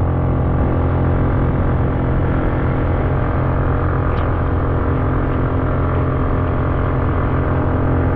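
Motorcycle engine running at a steady speed under load up a steep road, a constant drone with no revving.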